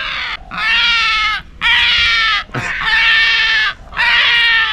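A large bird squawking loudly and harshly, call after call: about four raucous squawks, each close to a second long, with short breaks between them.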